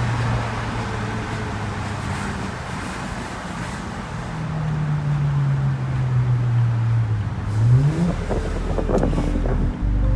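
BMW 335i's N54 twin-turbo straight-six running through a muffler-deleted exhaust: a steady low drone that slowly falls in pitch, then the revs climb about three quarters of the way in, followed by a louder, rougher burst of exhaust noise.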